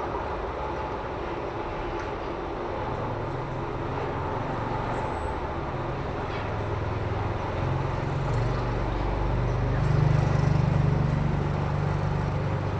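Steady road traffic noise, with a motor vehicle's engine hum growing louder and peaking about ten seconds in as it passes.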